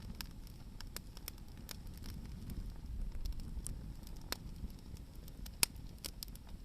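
Hardwood firewood burning in an open campfire, crackling with irregular sharp pops, one louder snap a little over five seconds in, over a low steady rumble.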